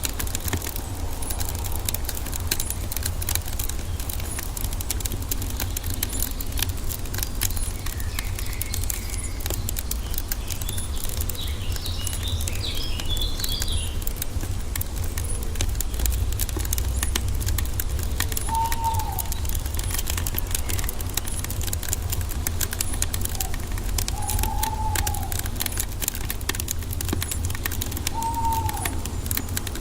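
Wood fire crackling with a steady stream of sharp pops over a low, constant rumble. A bird twitters briefly about twelve seconds in, and a short, low, arching bird call sounds three times in the second half.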